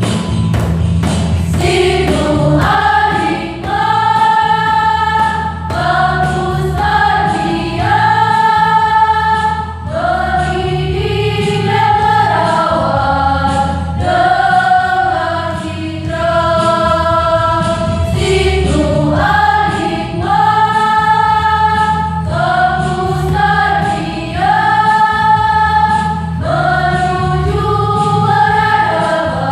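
A choir singing a slow song in long held phrases, over a low accompaniment.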